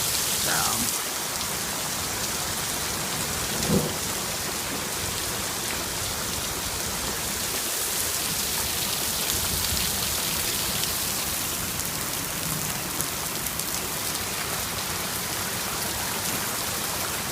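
Steady rain falling hard in a storm, with one brief knock about four seconds in.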